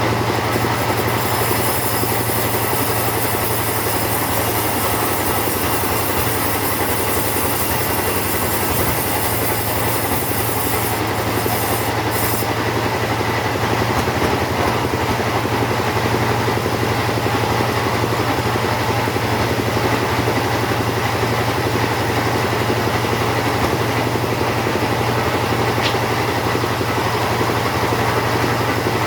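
Two-stroke chainsaw running steadily under load, cutting through teak wood. The high hiss of the cut eases off about halfway through.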